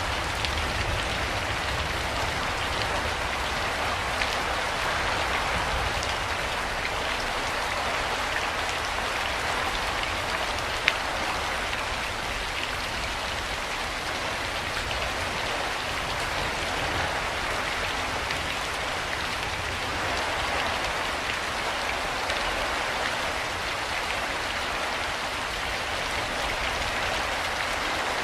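Steady rain falling, a continuous hiss of drops with a few sharper single drop ticks, one a little louder about eleven seconds in.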